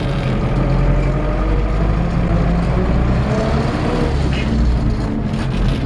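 MTZ-80 tractor's four-cylinder diesel engine running steadily under load as the tractor drives in eighth gear, engaged without the clutch.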